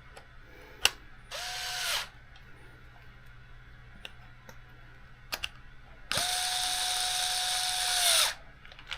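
Small electric screwdriver running in two bursts, a short one and then a longer one of about two seconds, driving small screws to mount a servo. Each burst spins up to a steady whir and winds down at the end, with a few sharp clicks between them.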